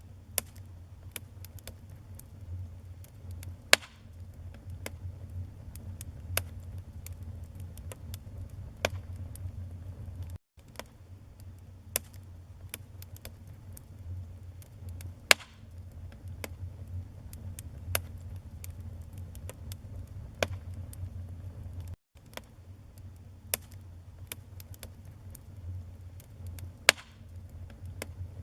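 Wood fire crackling in a fireplace: a steady low rumble of flame under frequent small crackles, with a louder sharp pop about every eleven seconds.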